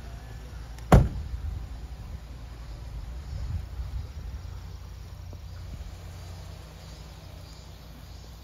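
Steady low rumble with a single sharp knock about a second in.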